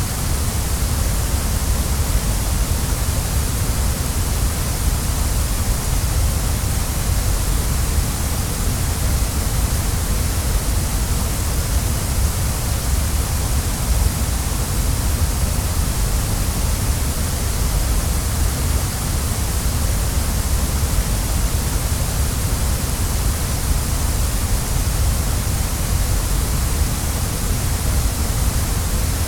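Waterfall rushing in a steady, unbroken roar of falling water, with no changes or separate events.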